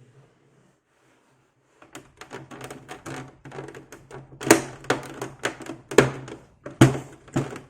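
A plastic case part being worked into place on an Amiga 500: a quick run of clicks and scrapes, then several loud plastic snaps as it is pushed home.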